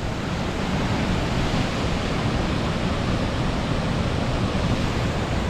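Waterfall running heavily: a loud, steady rush of falling water.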